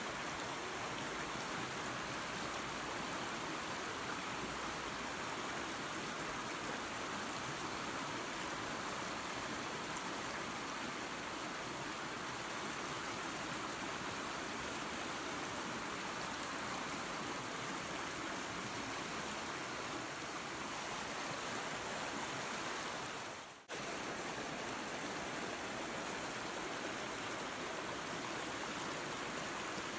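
Steady rushing of a waterfall and creek, an even hiss of running water. The sound dips out very briefly about two-thirds of the way through, then resumes unchanged.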